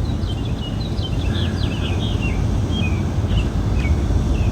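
Small songbirds chirping and twittering in quick, high notes over a steady low rumble.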